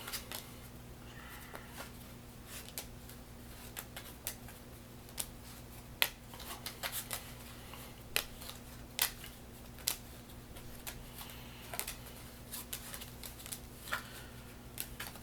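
Playing cards dealt one at a time onto a table, each landing with a short sharp tap at an irregular pace of roughly one a second. A steady low electrical hum runs underneath.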